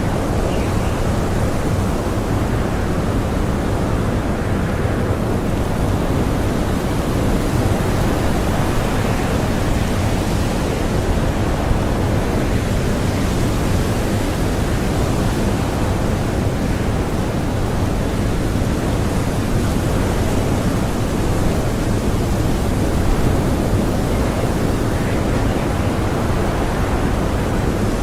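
Blizzard wind blowing loose powder snow: a steady, even rushing noise with no gusts or breaks.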